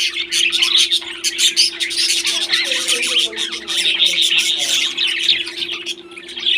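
A group of pet parrots chirping and squawking without pause, many calls overlapping, over a steady low hum.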